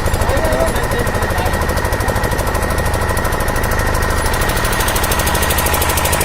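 An engine running steadily with a rapid, even knock of about ten beats a second.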